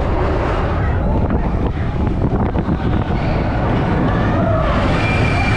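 Roller coaster train rumbling along its track, with wind buffeting the microphone. A thin, steady, high wheel squeal sets in near the end.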